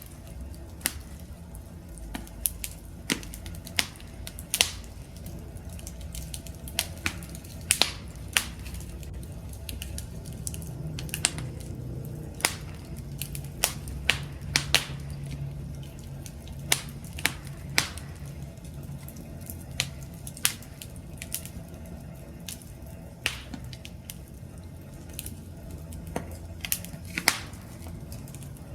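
Wood campfire crackling: irregular sharp pops and snaps, one to three a second, over the steady low rumble of the burning fire.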